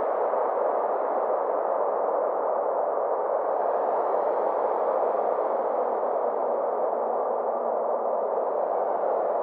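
Synthesized space ambience: a steady, even rushing drone with a faint whooshing sweep that rises and falls in the upper range around the middle.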